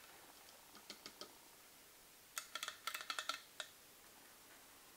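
Light clicks and clatter of small hard objects being handled: a few soft taps about a second in, then a quick run of sharper clicks and knocks lasting about a second.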